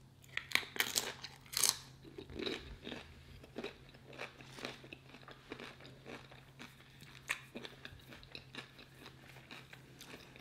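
Close-miked crunching and chewing of a tortilla chip loaded with toppings: sharp crunches in the first two seconds as it is bitten, then softer, scattered chewing crackles.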